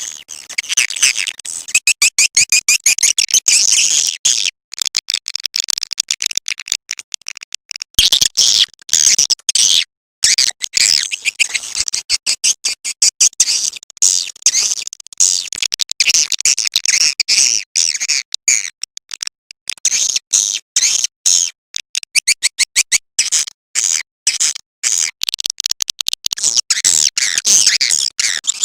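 Swiftlet call-sound recording played as a lure: dense, rapid, high-pitched twittering chirps of swiftlets, with brief breaks about four and a half and ten seconds in.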